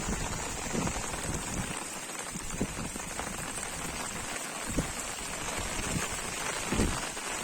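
Heavy rain falling steadily, with a few low thuds now and then.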